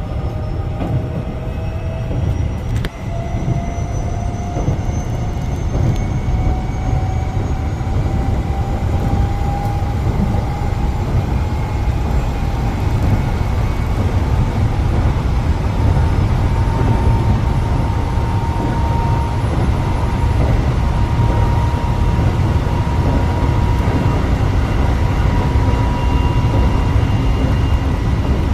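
Electric train running and accelerating: a heavy low rumble under a traction-motor whine that rises slowly in pitch for about twenty seconds, then levels off.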